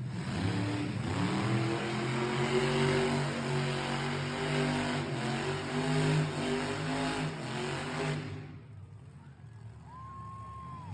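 Monster truck engine revving loudly, its pitch climbing and falling with the throttle, cutting off about eight seconds in.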